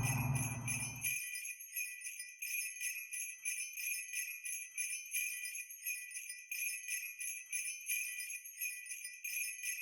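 Jingle bells shaken in a steady rhythm. For about the first second the 1972 Plymouth Road Runner's 383 V8 is heard running, then it cuts off suddenly and only the bells go on.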